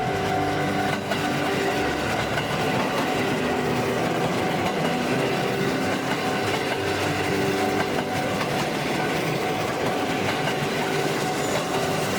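A train running on rails: a steady rumble with a constant hum over it.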